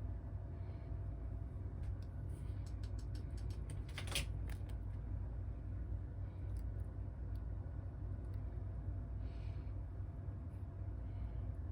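Light clicks and taps from small parts and tools being handled during smartphone repair work, with a run of clicks and one sharper click about four seconds in. A steady low hum runs underneath.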